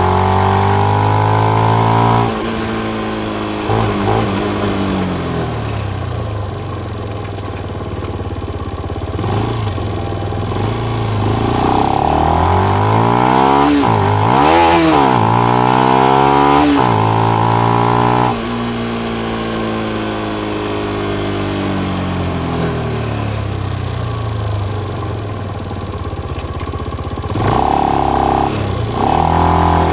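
Benelli BN125's single-cylinder four-stroke engine through its stock exhaust with the dB killer in, under way: it revs up and shifts through gears in quick dips, then runs down slowly off the throttle. This happens twice, with a sharp climb again near the end.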